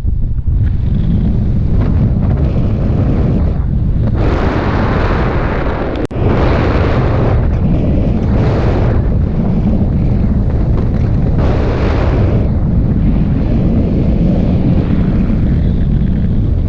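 Wind buffeting the microphone of a paraglider pilot in flight: a loud steady rumble, with stronger gusts about four, eight and twelve seconds in.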